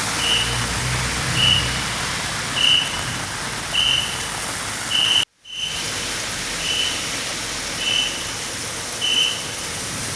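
Heavy rain pouring down in a dense, steady hiss. A short high electronic beep repeats a little more than once a second over it. The sound cuts out for an instant about five seconds in.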